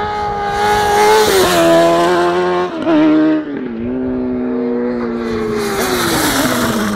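Sport motorcycle engine held at high revs, its pitch dropping in steps, then rising and falling again as the throttle is worked.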